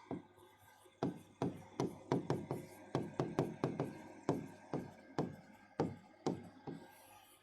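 Quick, light, irregular tapping, about three or four taps a second, starting about a second in and stopping near the end.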